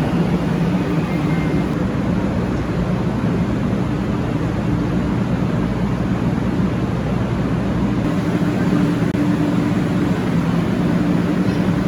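Steady rumble and hum of a moving train heard from inside the carriage, with a low drone under an even rushing noise.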